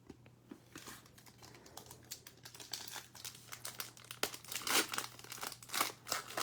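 Crinkling and tearing of a Select football trading-card pack's foil wrapper being opened by hand, in irregular crackles that grow loudest about five seconds in.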